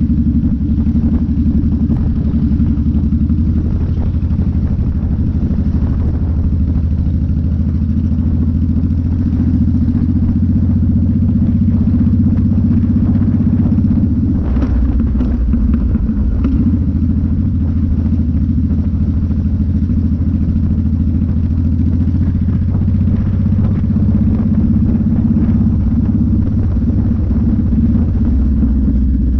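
Honda VTX 1800C's big V-twin engine running steadily while cruising through town traffic, heard from the rider's seat. The engine note shifts about halfway through.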